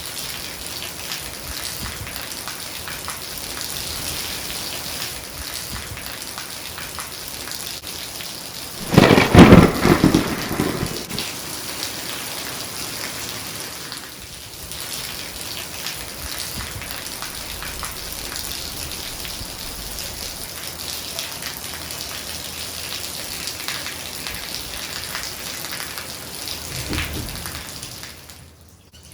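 Steady rain with a loud thunderclap about nine seconds in that rumbles on for a couple of seconds, and a fainter rumble of thunder near the end.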